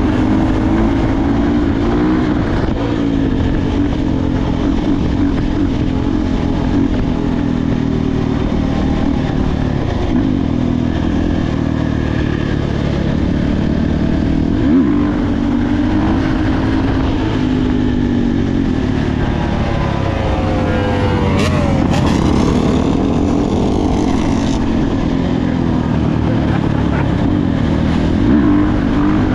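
Dirt bike engine running continuously under riding, its revs rising and falling as it is throttled and shifted.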